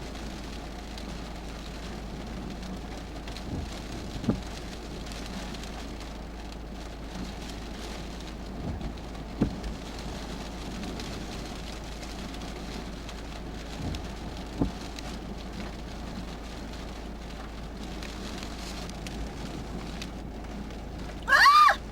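Steady heavy rain from a typhoon, with a few short dull thumps about every five seconds. Near the end comes a brief loud squeal that rises and then falls in pitch.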